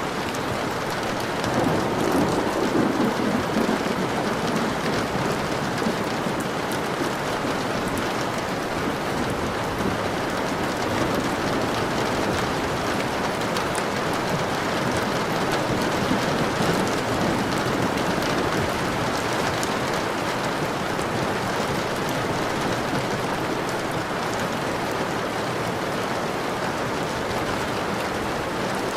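Steady heavy rainfall with scattered individual drop hits. A low rumble of thunder swells about two seconds in and fades within a couple of seconds.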